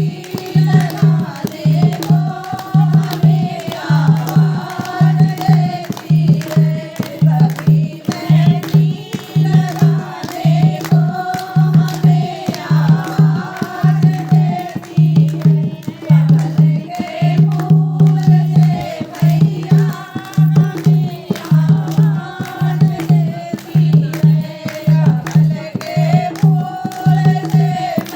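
Devotional Hindi bhajan to the Mother goddess: a sung melody over a steady drum beat of about two strokes a second.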